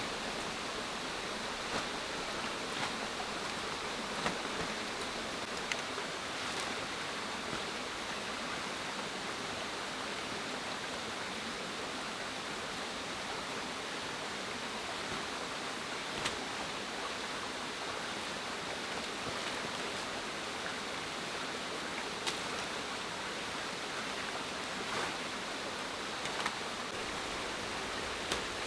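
A steady rushing hiss, with a few scattered sharp clicks or snaps over it.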